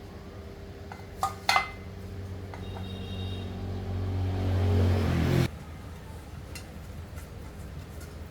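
Small engine on a mini corn thresher running, with two sharp metallic clicks about a second in. It then revs up, rising in pitch and loudness for a few seconds, and drops back suddenly to a steady idle.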